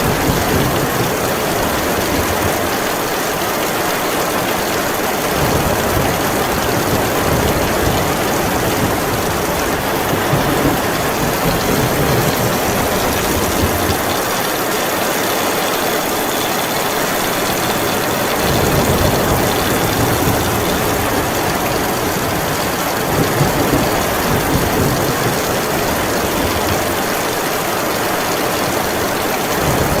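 Heavy rain falling steadily in a thunderstorm, with a low rumble that swells and dies away several times.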